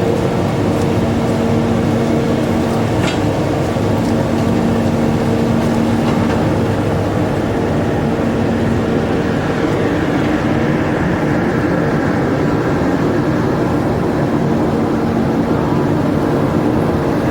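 Passenger ferry's engine running, heard on board: a steady, loud drone with a constant low hum. There is a brief click about three seconds in.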